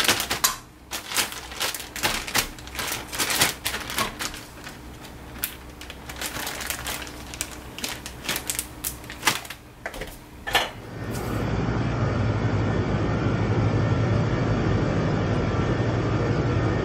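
Irregular light clicks and clatter of kitchenware being handled. About eleven seconds in, a steady, louder low rumble like road noise takes over.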